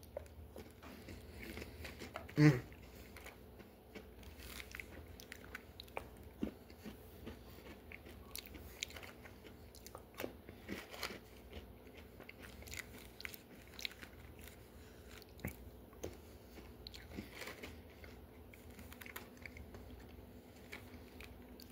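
A person chewing crunchy vanilla Dunkaroos cookies close to the microphone, with soft irregular crunches and clicks. A brief low vocal sound comes about two and a half seconds in.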